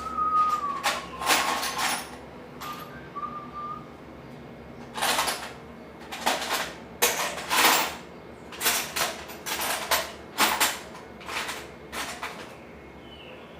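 A person whistling a few slow, falling notes, over a series of about a dozen short, harsh scraping or rubbing strokes at uneven intervals, from hand work on the stove.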